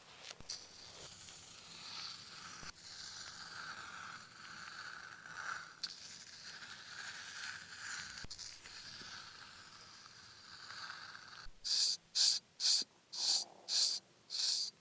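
A blade scraping along the skin of a bare back in traditional blade back-scraping, as slow drawn strokes with a soft rasp. Near the end come six quick, harder strokes, about two a second.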